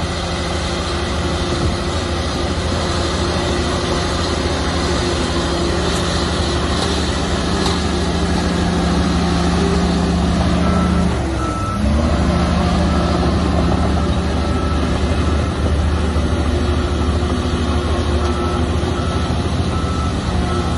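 Heavy diesel earthmoving machinery running under load. The engine pitch sags and recovers about halfway through, and from then on a reversing alarm beeps in a regular series.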